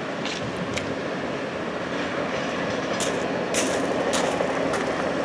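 Freight train cars rolling away down the track: a steady rumble and hiss, with several short, sharp ticks in the second half.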